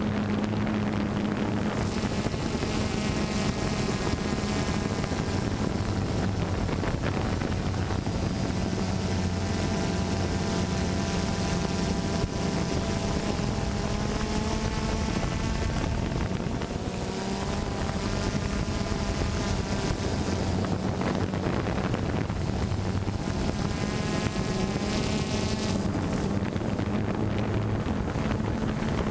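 Phantom quadcopter's propellers and motors buzzing steadily in flight, their pitch wavering slightly as the motors adjust, with wind rushing over the microphone.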